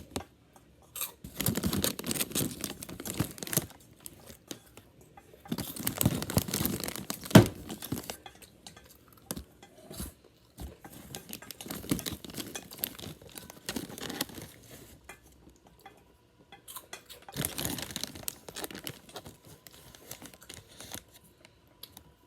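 Borax being stirred into warm water in a bowl, the stirring utensil scraping and clinking against the bowl in irregular bursts. One sharp knock, the loudest sound, comes about seven seconds in.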